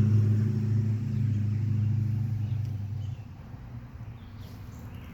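A motor vehicle's engine running, a steady low hum that cuts off or fades away about three seconds in.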